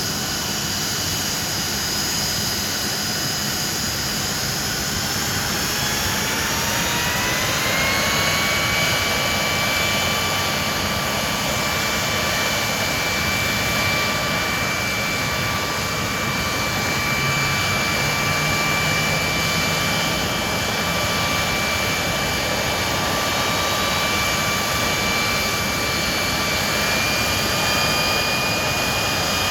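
Hawker Siddeley Nimrod's Rolls-Royce Spey turbofan engines running with a loud steady rush and whine. The whine rises in pitch from about five to eight seconds in as the engines power up, then holds steady.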